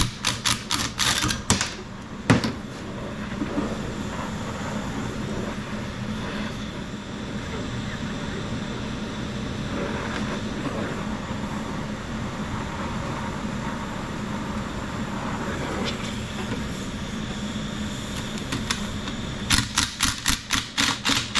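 Ratchet wrench clicking in quick runs as rusty exhaust manifold bolts are worked loose, once at the start and again near the end, with a single metallic knock a couple of seconds in. A steady hiss and low hum fill the stretch between.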